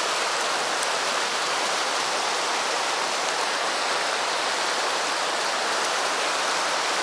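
Stream water flowing steadily over rocks, an even rushing noise without break.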